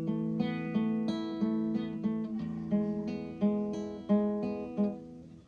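Background music of acoustic guitar playing strummed and plucked chords at a steady pace, fading near the end.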